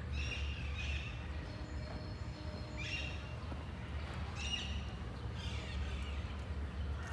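Birds calling in short chirps every second or two, over a steady low rumble.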